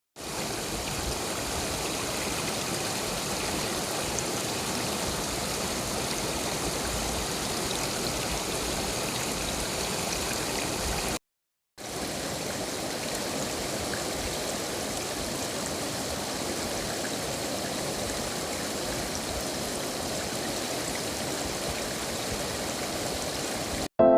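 Steady rushing of flowing water, broken by a brief silent gap about eleven seconds in.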